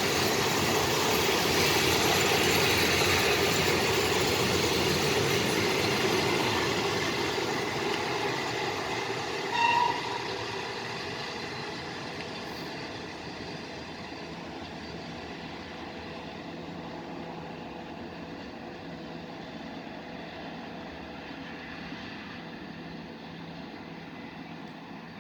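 A historic diesel-hauled train with FS D345 and D445 locomotives and centoporte coaches rolling past. The rushing rail noise slowly fades as the train moves away. About ten seconds in there is one brief high tone.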